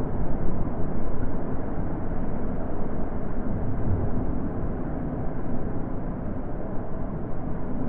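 Wind blowing steadily, a deep rushing with gentle swells, easing slightly after the first second or so.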